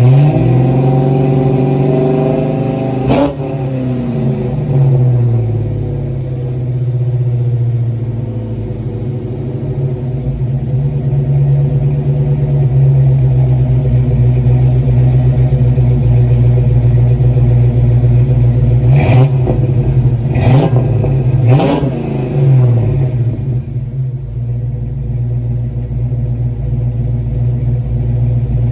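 Ford Mustang 5.0's 302 V8 running through a free-flowing exhaust under acceleration on a test drive: the engine note rises for about three seconds, breaks off at a gear change and falls, then settles to a steady drone. Around two-thirds of the way through there are three quick sharp breaks in the note, each followed by a falling pitch.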